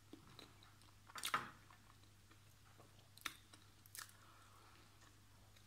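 Quiet eating sounds from someone eating with her fingers: one short chewing or smacking sound about a second in, then two faint mouth clicks near three and four seconds.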